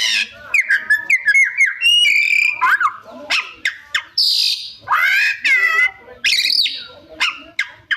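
Oriental magpie-robin (kacer) in full song: a fast, varied string of clear whistles, rapid clicking trills and harsh rising calls, the mixed 'isian' repertoire of mimicked phrases.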